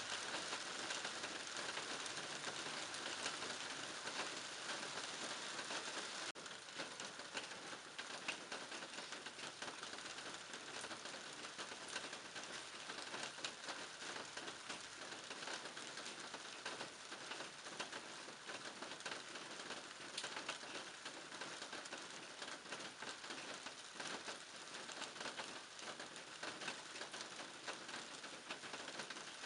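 Steady rain falling in a garden, a dense hiss of countless individual drop hits. It eases slightly about six seconds in.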